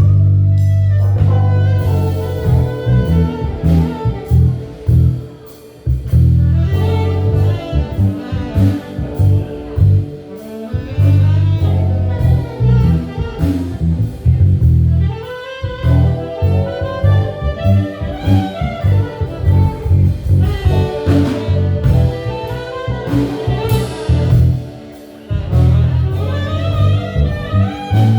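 Live jazz-blues band playing an instrumental passage: bass, drum kit and keyboard, with a lead instrument soloing over them. The music dips briefly twice.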